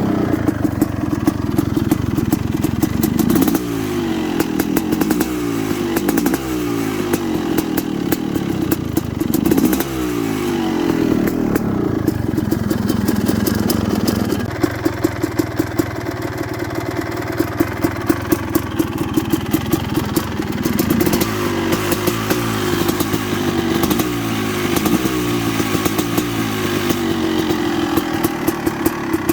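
2005 Suzuki RM250 two-stroke motocross engine running while warming up after a cold start, the throttle blipped again and again so the revs rise and fall.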